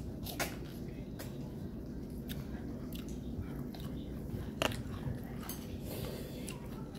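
Close-up chewing and biting of food, with wet mouth sounds and a few short sharp clicks, the loudest a little past halfway.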